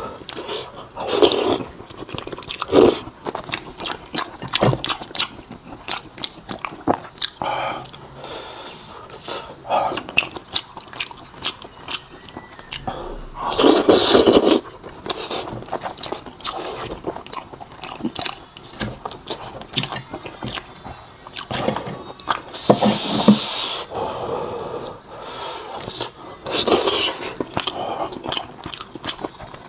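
Close-miked eating of pig's head meat: wet chewing and lip smacks made of many short clicks, with a few louder, longer mouth noises. One comes about halfway through, as meat is pushed into the mouth and sucked off the fingers.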